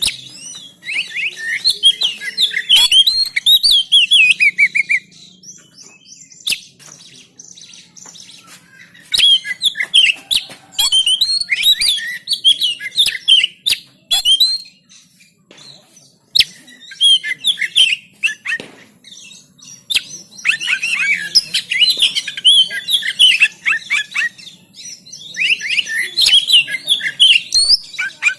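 Oriental magpie-robin (kacer) singing rapid, varied chirps and whistles in phrases of a few seconds, with short pauses between them. There are a few sharp clicks in the pauses.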